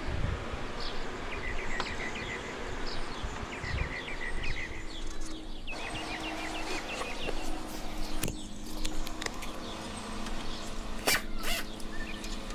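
Birds chirping in short, repeated high calls, with a few sharp clicks near the end.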